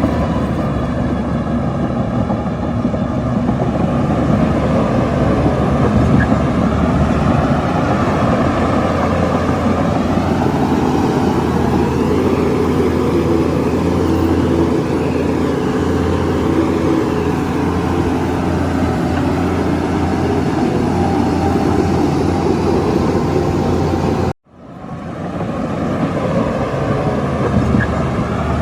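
Heavy diesel earthmoving machinery running steadily under load, its engine note rising and falling slowly. The sound cuts out for a split second about 24 seconds in, then returns.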